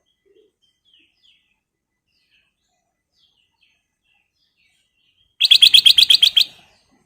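Black-crested bulbul (kutilang emas) calling: faint scattered high chirps, then near the end a loud, rapid chatter of about ten notes a second lasting about a second.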